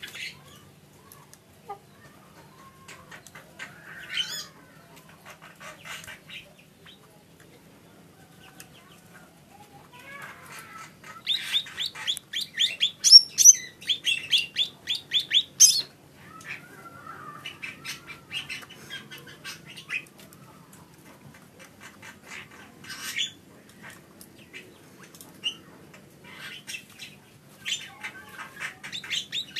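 Cucak ijo (green leafbird) singing: runs of fast, high chirping notes, with the loudest, longest run a little before the middle and quieter scattered calls around it.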